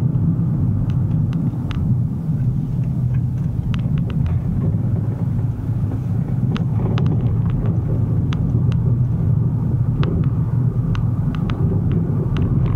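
A motor vehicle running with a steady low rumble, with scattered light clicks and ticks over it.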